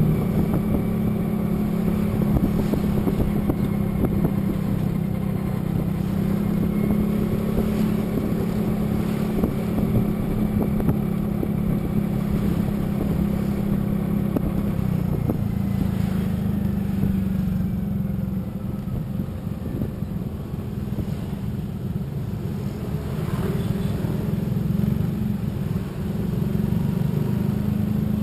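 A vehicle's engine running steadily while driving, with a constant hum and a rumble of road and wind noise. The engine eases off a little about two-thirds of the way through, then picks up again near the end.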